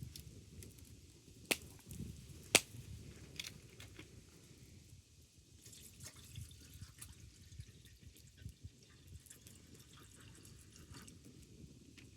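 Wood fire crackling, with scattered small snaps and two sharp pops a second apart, the second the loudest, over a low rush of noise.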